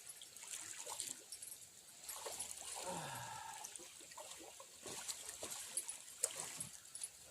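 Faint scattered clicks and water splashing as a channel catfish is reeled in to the bank, with a short falling whine about three seconds in.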